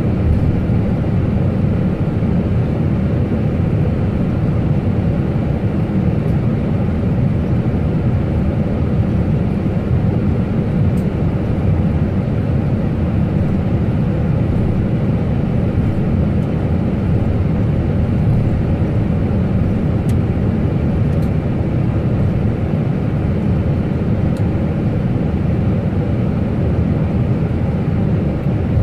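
Steady, even noise of airliner engines and airflow heard inside the cockpit, with no changes in level or pitch.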